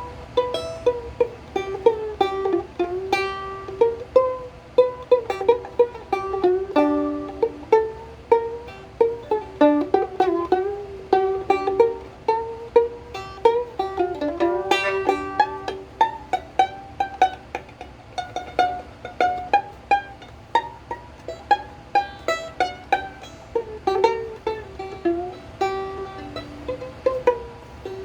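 A 130-year-old plucked string instrument played as a melody of single plucked notes, each ringing briefly and dying away, on an instrument tuned as best the player could and in need of some repair.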